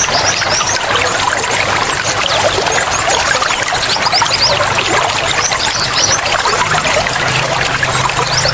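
Water flowing and trickling steadily, with clusters of short high-pitched notes over it every second or two.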